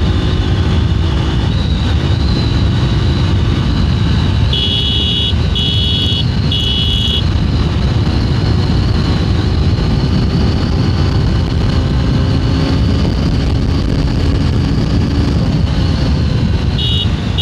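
Motorcycle riding in traffic, its engine running under a steady rush of wind on the microphone. A horn beeps three short times about five seconds in and once more near the end.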